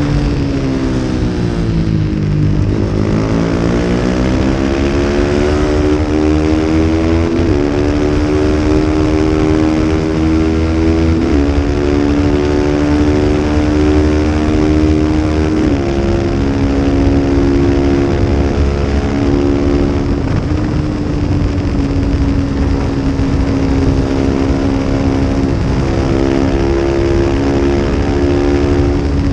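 A 250-class race motorcycle engine winds down as it slows for a corner, then accelerates hard, its pitch climbing through four quick upshifts, each a sudden step down, before it holds steady at high revs.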